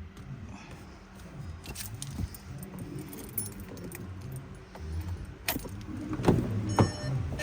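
Car keys jangling, with a few sharp clicks near the end as the key is worked in the ignition of a 2017 VW Polo whose starter signal wire has just been reconnected.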